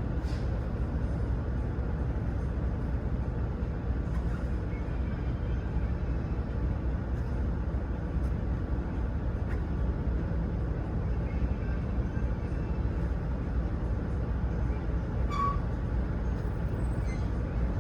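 A vehicle engine running with a steady low rumble, and a brief click and short beep about fifteen seconds in.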